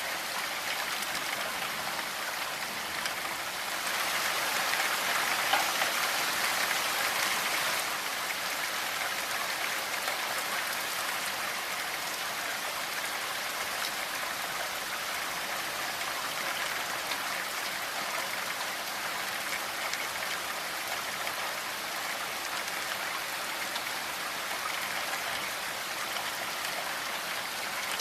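Steady rainfall: an even hiss of many drops, a little heavier for a few seconds about four seconds in.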